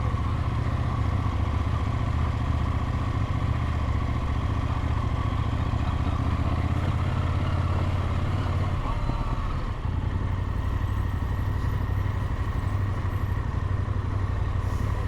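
Motorcycle engine running steadily while riding, with a strong low rumble; it briefly dips about ten seconds in.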